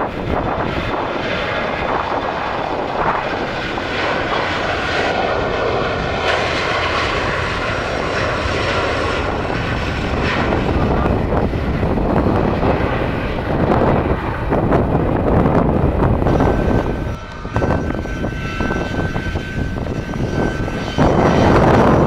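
Airliner engines running, a loud steady rush with a thin whine coming in near the end.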